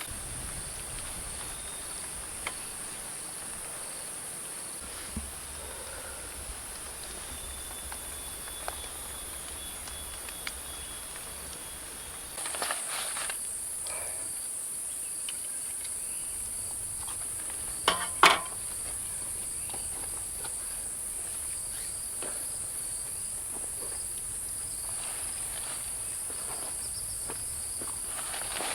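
Forest insects trilling in a steady, high-pitched chorus that grows louder about halfway through. A few scattered knocks and rustles sound over it, the sharpest one about two-thirds of the way in.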